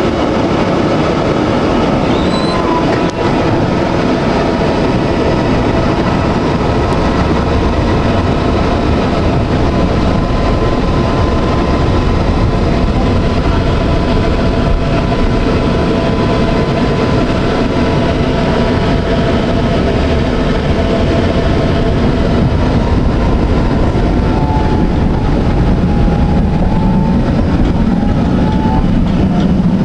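Electric tram running on its rails: a steady, loud rolling rumble with thin whining tones over it, which bend in pitch near the end.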